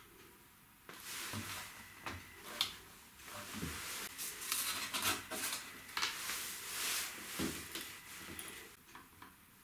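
Hands-on workbench handling: a run of irregular rustling with small knocks and clatters of material and tools being handled, starting about a second in and settling down near the end.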